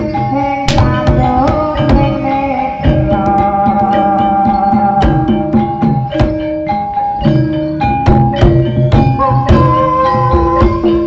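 Live Javanese jaranan (ebeg) music: hand drums beating a fast, busy rhythm under struck tuned-percussion notes and a held, steady melody line.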